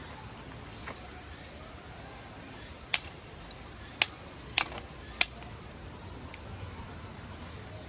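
Four sharp clicks or knocks, a second or less apart, over a steady low background noise.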